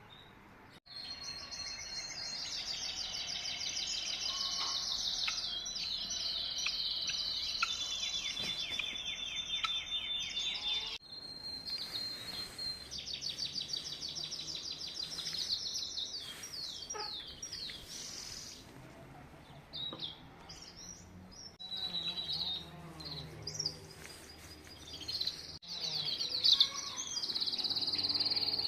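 Small songbirds singing and chirping together in rapid, high trills, the song breaking off abruptly a few times where the recording is cut.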